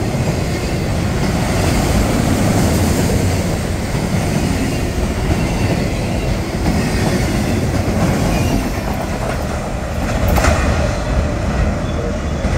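Empty autorack freight cars rolling past at speed: a steady rumble and clatter of steel wheels on the rails. A short sharp noise stands out about ten seconds in.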